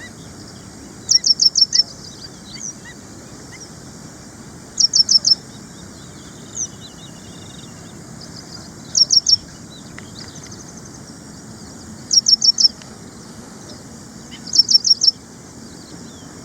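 Ashy prinia singing: a short phrase of four or five rapid, high, clipped notes, repeated five times at intervals of three to four seconds.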